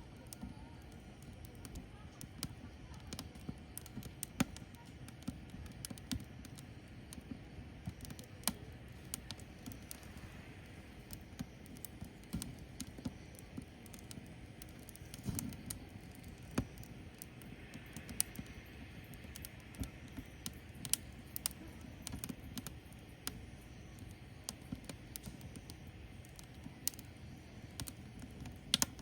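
Firewood burning, with irregular crackles and pops over a steady low noise.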